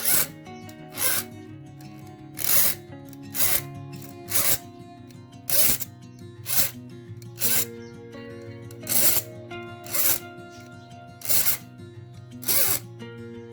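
Hand file rasping across saw teeth in short strokes, roughly one a second at an uneven pace, over background music.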